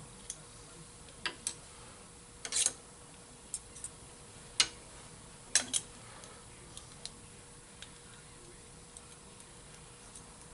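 Irregular light clicks and taps of tools and parts being handled while a valve seat cutter is set up on the machine, about a dozen spread unevenly, with a faint steady hum underneath.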